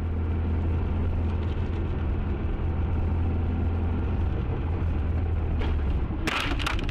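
Steady low hum of a car's engine and road noise heard inside the cabin through a dashcam. Near the end comes a quick cluster of sharp knocks or clatter.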